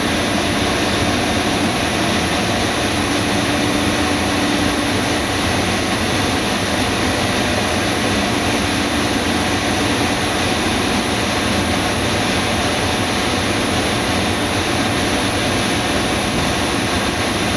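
Steady, loud machine noise, an even rushing drone with faint steady high tones, unchanging throughout.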